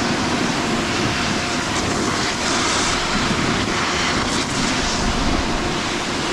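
Steady, loud wind noise on the microphone while snowboarding down a snowy run, mixed with the hiss of the board sliding over snow.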